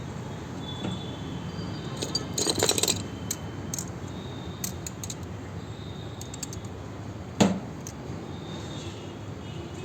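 Metal hand tools and fittings clinking and rattling, most densely about two to three seconds in, with scattered lighter clicks and one sharp knock about seven and a half seconds in, over a steady background hum.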